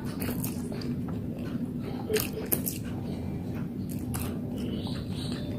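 A person chewing a mouthful of fried noodles close to the microphone: wet mouth sounds with short smacking clicks scattered throughout. A low steady hum runs underneath.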